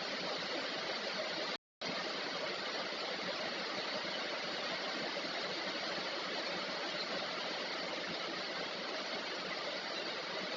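Steady rain falling, an even hiss with no rhythm. The sound drops out completely for a moment about one and a half seconds in.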